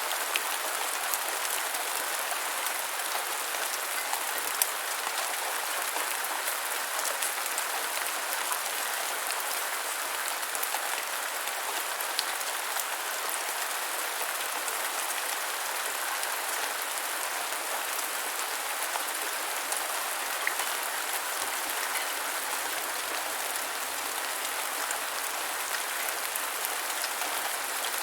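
Steady rain falling on the ground: an even hiss of rain with scattered individual drop ticks.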